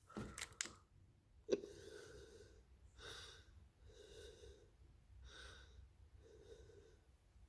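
Faint breathing: soft breaths about once a second, after a couple of sharp clicks in the first second and a half.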